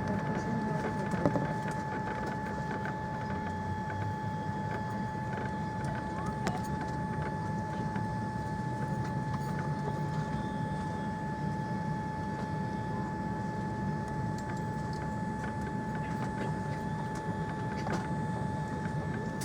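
Steady cabin noise aboard a Boeing 787-9 Dreamliner: a low hum and rush of air under a steady, high whine. There is one brief knock about a second in.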